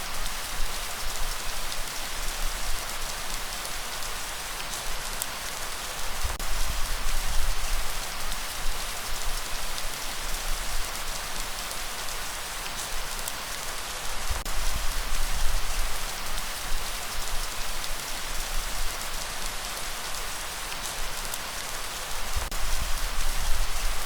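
Steady rain falling in an even hiss of drops, with a low rumble underneath that swells and fades every few seconds.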